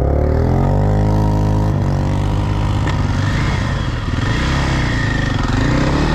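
An off-road vehicle engine revs up over the first second and holds high revs, then drops off and runs at rising and falling revs while riding.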